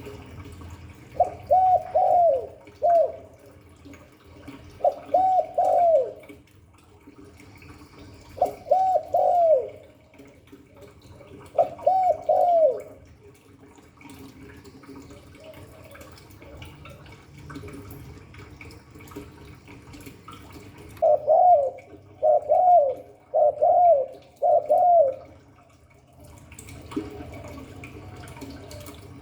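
Spotted dove cooing. Four multi-note coo phrases come three to four seconds apart; then, after a long pause, a quicker run of four short coos. A low steady hum lies underneath throughout.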